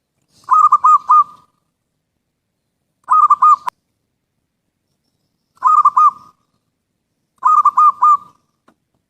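Zebra dove cooing in four short phrases of quick coos, about two seconds apart. The second phrase is cut off abruptly with a click.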